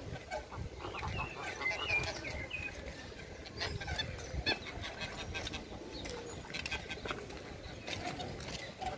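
Small birds chirping, with a cluster of twittering calls about two seconds in, over a steady outdoor background with scattered clicks.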